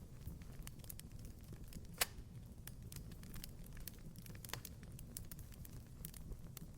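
Wood fire crackling in a fireplace: scattered small crackles over a low, steady rumble, with one sharp pop about two seconds in and a smaller one a couple of seconds later.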